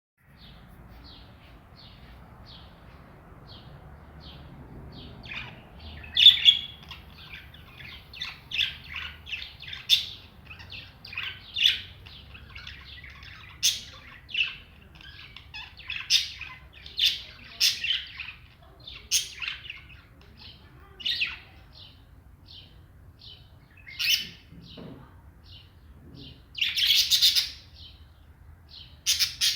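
A couple of caged birds chirping: a steady run of short, high chirps, with louder calls every second or two and a longer burst of chirping about 27 seconds in.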